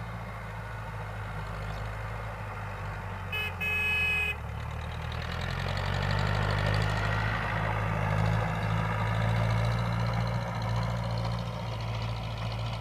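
Tractor engine running steadily, growing louder about five seconds in and easing off near the end. A horn toots twice briefly about three and a half seconds in.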